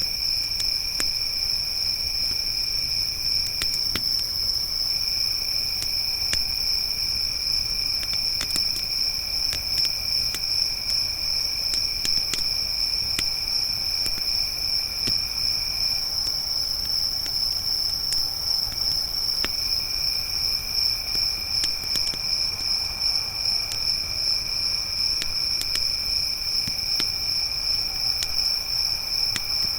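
Crickets trilling steadily and continuously, with a second, lower-pitched insect trill that drops out twice, over scattered small pops and crackles of a wood campfire.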